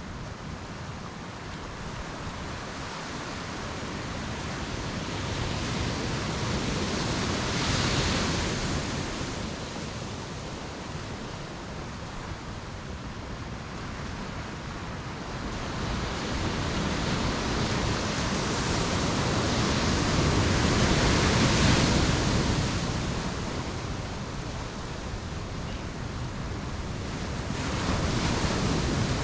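Ocean surf breaking on a beach, swelling and falling back in slow surges: one about a quarter of the way in, a longer, louder one past the middle, and another near the end.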